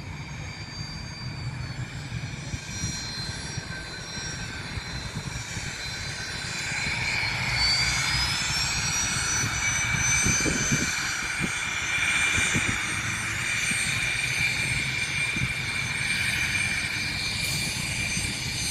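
Airliner engines running with a steady high whine. About seven seconds in the whine rises in pitch and grows louder, then holds at the higher pitch.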